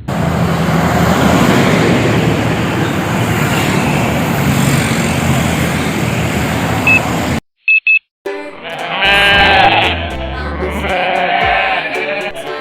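A loud, steady rush of highway traffic noise cuts off abruptly. After two short beeps, music starts, carrying goat-like bleating sounds.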